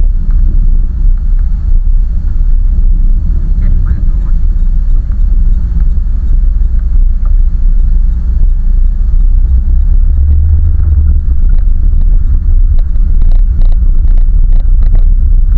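Land Rover Freelander 1 Td4 with its BMW M47 four-cylinder turbodiesel, driving in snow with a loud, steady low rumble. Scattered short clicks come in the last few seconds.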